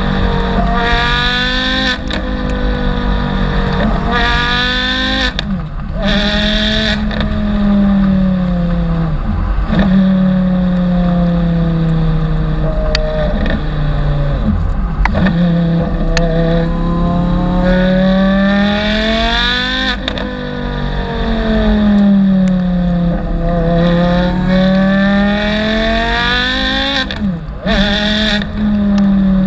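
Porsche Carrera GT's V10 engine through a straight-pipe exhaust, running loud and rising and falling in pitch every few seconds, over and over.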